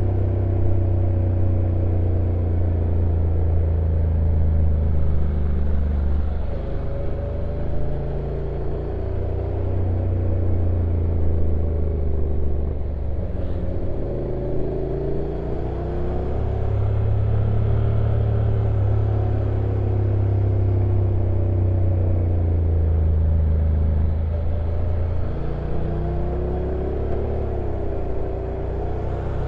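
Stock Honda NC750X DCT's 745 cc parallel-twin engine running on a downhill ride, its pitch dipping and rising a few times over a steady low rumble.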